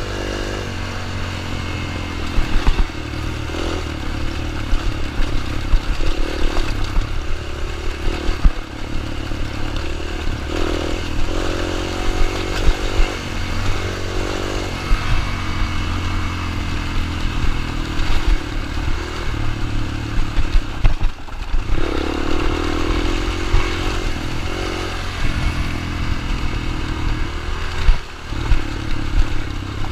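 Dirt bike engine running, its pitch rising and falling several times as the throttle is opened and eased off, with scattered clattering knocks.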